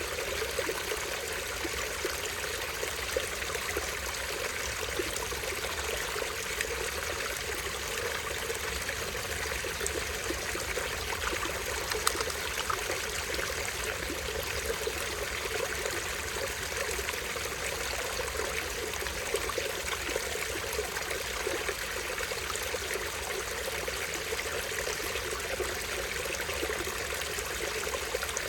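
Small stream with a tiny waterfall, water running and trickling steadily over rocks.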